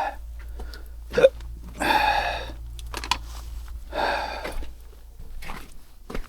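A man's short wordless vocal sounds, hiccup- or grunt-like, three times at roughly one- to two-second spacing, over a steady low hum.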